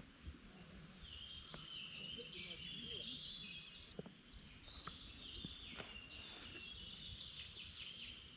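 A songbird singing a long run of quick, high, stepping notes that starts about a second in and goes on almost to the end, breaking off briefly around the middle. Beneath it runs a low outdoor rumble, with a few faint knocks.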